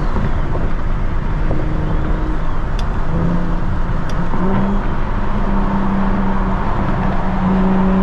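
Single-turbo BMW 335is's N54 inline-six running under way, with a steady engine note that climbs slightly in pitch about three seconds in and again near the end as it accelerates. There are two brief sharp clicks near the middle.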